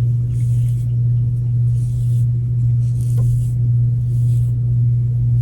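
Steady low drone inside a moving vehicle's cabin, with soft brief rustles about once a second.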